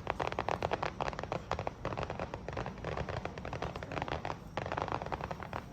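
Crackling fireworks: a dense, irregular run of sharp pops and crackles.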